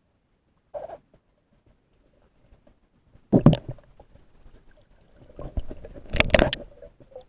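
Water gurgling and sloshing, with a loud sudden splash or knock about three and a half seconds in and another cluster of them around six seconds in.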